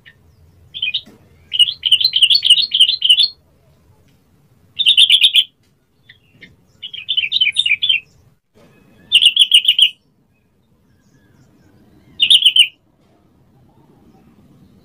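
Yellow-vented bulbul singing: a series of short, bubbly warbling phrases separated by pauses, one of them longer about two seconds in.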